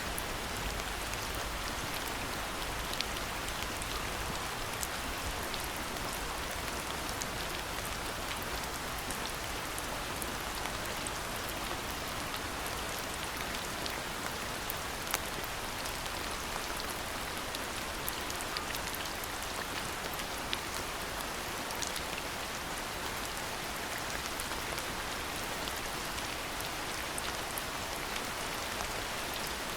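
Steady rainfall, an even hiss with many sharp individual drop ticks scattered through it.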